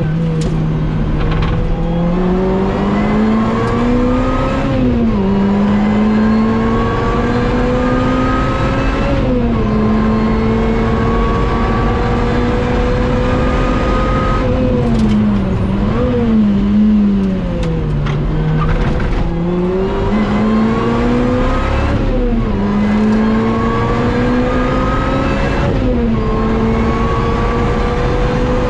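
Lotus Exige S supercharged engine at full throttle on a track lap: the pitch climbs through each gear and drops sharply at upshifts about 5 and 9 seconds in, then falls in several quick steps during downshifts around the middle before climbing again through the gears. The engine is down on power, its supercharger belt slipping in oil from a torn shaft seal.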